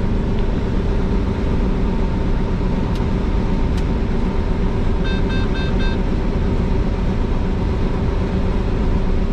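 Combine harvester running steadily while harvesting soybeans. Three short beeps sound about five seconds in, and there are two faint clicks shortly before them.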